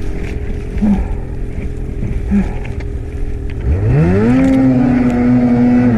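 Snowmobile engine running low, then revving up about three and a half seconds in and holding high revs steadily.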